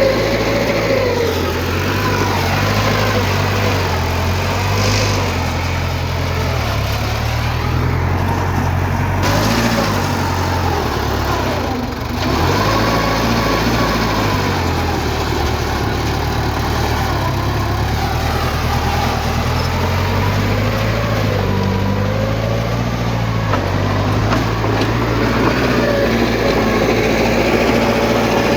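Diesel engine of heavy earthmoving machinery running continuously, its pitch rising and falling as the machine works under changing load.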